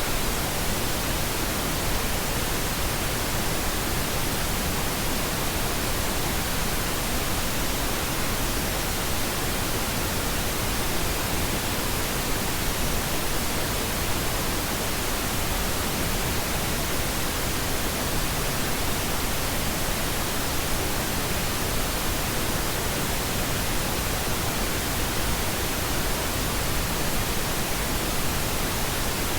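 Steady synthetic pink noise: an even, unchanging hiss with no events in it.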